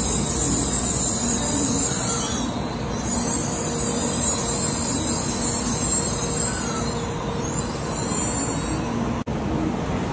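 Shinkansen bullet train pulling into a station platform: a steady rumble of wheels on rail with a high hiss, broken by a brief dropout near the end.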